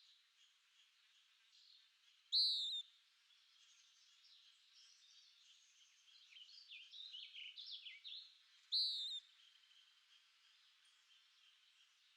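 Songbirds chirping in a faint background chorus. One bird gives a loud, short, down-slurred call twice, about six seconds apart, with a quick flurry of chirps between the two calls.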